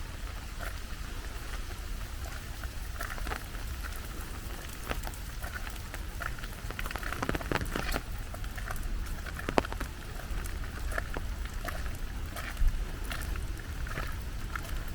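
Steady rainfall with a patter of individual drops, and louder drips and splashes scattered through it that come thickest a little past the middle.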